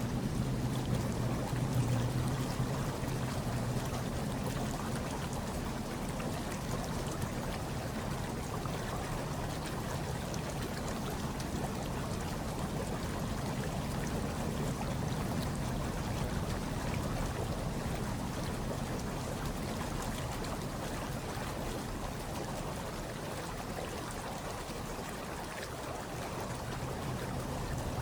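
Hot tub water churning and bubbling steadily, with a low hum that is a little stronger in the first few seconds.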